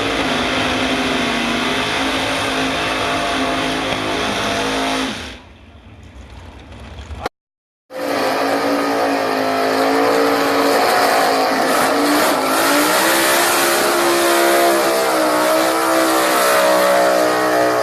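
Drag racing car engine running hard at high revs down the strip; the note ends about five seconds in. After a brief dropout, a loud engine at full throttle runs again, its pitch wavering up and down.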